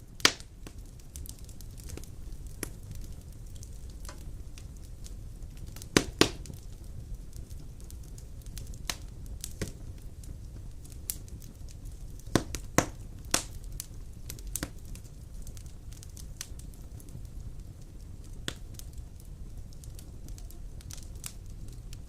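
Wood fire of large logs burning in a stone fireplace: a low steady rumble of flame with irregular sharp crackles and pops, the loudest coming in quick pairs and clusters.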